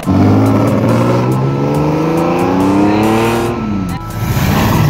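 Subaru WRX STI engine accelerating hard, its pitch climbing steadily for about three and a half seconds before falling away. About four seconds in, another car's engine revs up as it pulls out.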